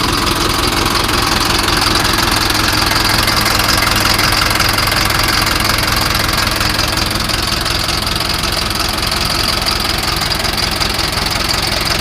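Mahindra 9200 4WD tractor's engine idling steadily.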